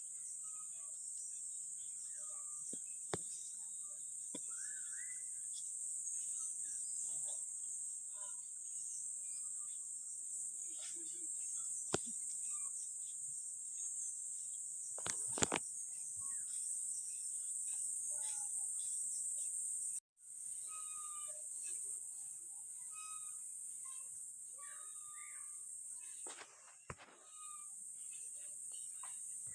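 Insects droning steadily at a high pitch, with scattered short bird chirps and a few sharp clicks. The drone drops out for a moment about two-thirds of the way through.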